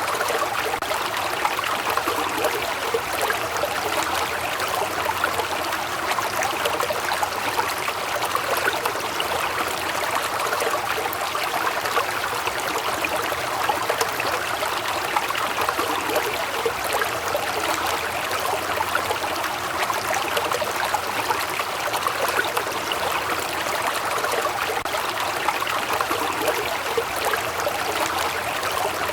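Waterfall water falling and splashing, a steady rushing of water.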